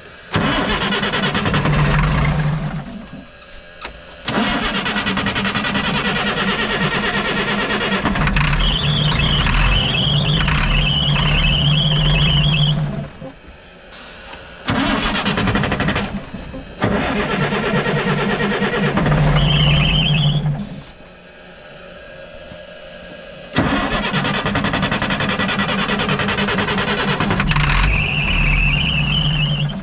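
The starter of a 1987 Ford L8000 turbo diesel cranking the engine in four long bouts with short pauses between. The engine turns over but does not catch, and a high whine comes in during some of the bouts. The engine is not getting fuel at the injectors, later traced to a failed fuel shut-off solenoid.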